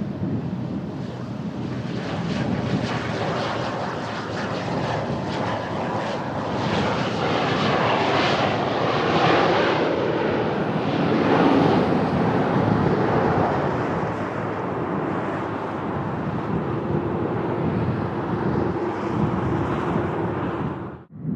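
Beechcraft Super King Air 300 twin turboprop passing on approach to land, its engine and propeller noise swelling to a peak about halfway through, then easing off with a steady low hum.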